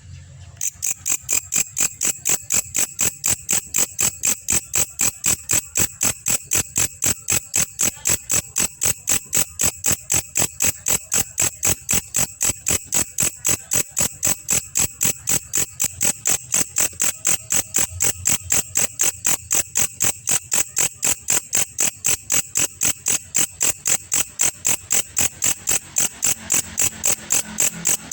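Belalang kecek, an Indonesian singing insect, stridulating in a fast, even series of sharp chirps, about four a second. It is kept and recorded as a masteran call for training songbirds.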